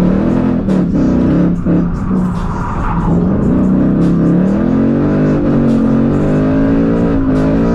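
S550 Ford Mustang engine with a muffler-delete exhaust, revving hard, its note rising and falling again and again over several seconds, with music underneath.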